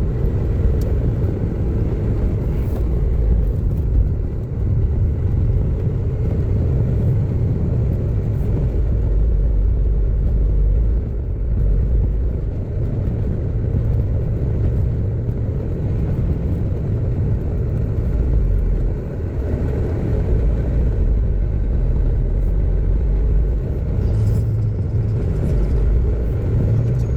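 Steady low rumble of a car driving: engine and road noise with no sharp events.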